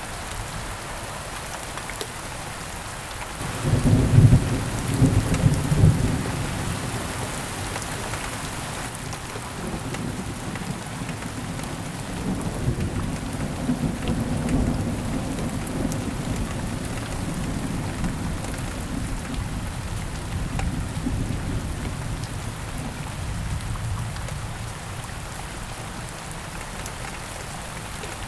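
Steady rain falling, with a thunderclap about four seconds in, loudest over the next couple of seconds, then a long low rumble of thunder that slowly dies away under the rain.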